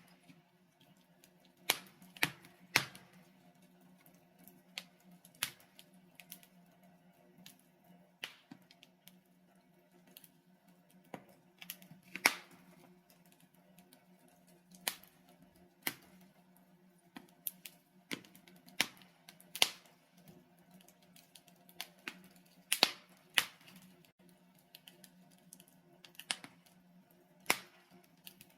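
Logs burning in a fireplace, crackling with irregular sharp pops, a few every couple of seconds and some much louder than others, over a faint steady low hum.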